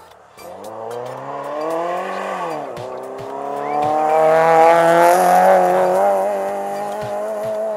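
Small hatchback rally car's engine revving hard under acceleration. The revs climb, drop sharply about two and a half seconds in at a gear change, then rise again and hold high as the car takes a bend. The engine is loudest in the middle.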